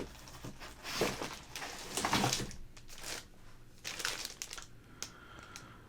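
Packaging crinkling and rustling in several short bursts while graded comic books are handled and unpacked.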